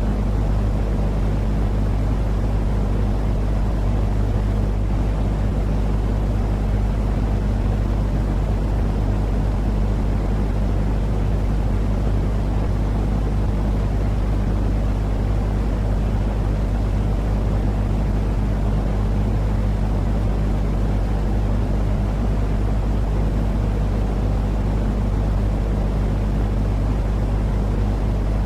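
Steady, unchanging low rumbling noise with a constant hum beneath it, heavy in the bass and thin in the highs: a continuous sleep noise for soothing a baby.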